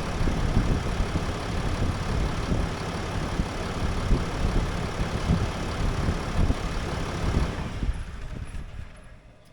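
Ram dually's Cummins inline-six turbodiesel idling, a steady low rumble that fades away near the end.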